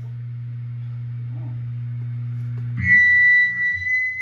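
A steady low drone from the band's amplified rig, then a bit under three seconds in a loud, steady high-pitched tone that rings for about a second and cuts off: a feedback whistle through the stage amplification during a sound check.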